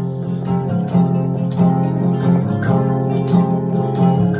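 Instrumental passage of a folk song: an acoustic guitar picking a steady pattern with low bass notes, and no singing.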